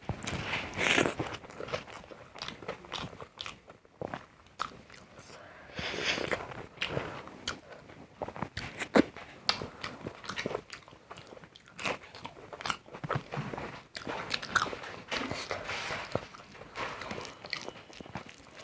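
A person eating close to the microphone: repeated crunchy bites and chewing of crisp food, in irregular sharp crackles.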